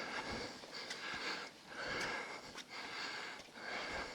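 A person breathing hard, with a breath about once a second.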